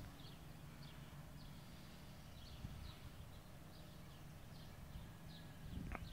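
Faint bird chirps, short and high, repeated roughly twice a second, over a low rumble of a light breeze on the microphone.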